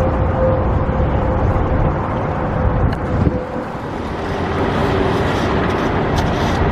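Wind buffeting the hand-held camera's microphone in a steady rumble, with a faint machine hum beneath it that drops a little in pitch about halfway through.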